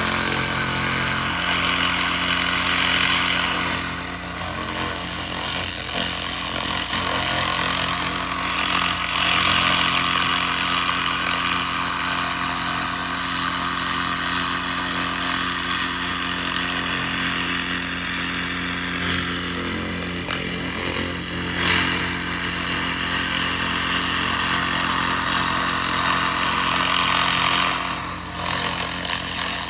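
Laser rust remover working on rusty metal: a continuous crackling hiss over a steady machine hum. The hiss dips briefly twice, near the start and near the end.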